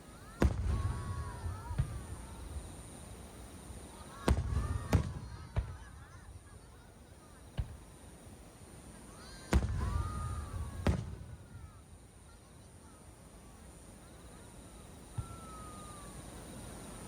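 Aerial fireworks shells bursting: a handful of sharp bangs coming singly and in pairs a few seconds apart, each followed by a rolling rumble.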